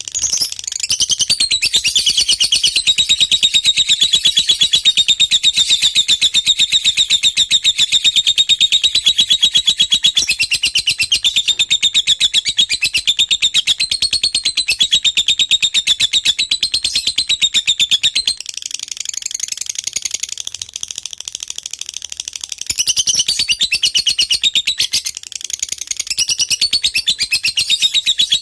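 Lovebird singing a long, unbroken run of rapid high chattering notes. It softens for a few seconds past the middle, then picks up loud again.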